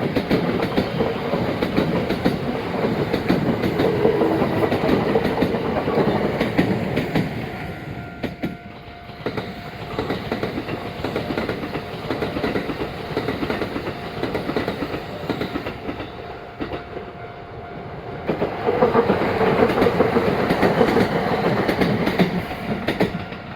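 Kintetsu Nagoya Line train running past, its wheels clacking rapidly over the rail joints. The clatter is loud at first, eases after about seven seconds, and grows loud again from about eighteen seconds. A steady high tone sounds from about eight seconds on.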